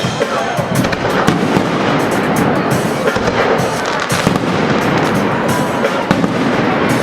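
Fireworks going off in rapid succession, a continuous run of crackling pops and bangs with no break.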